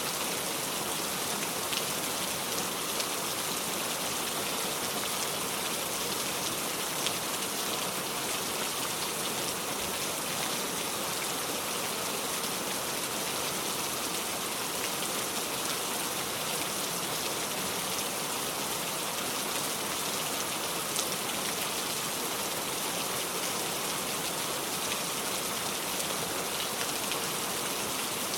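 Steady rain falling: an even hiss of rain with a few sharper drop ticks scattered through it.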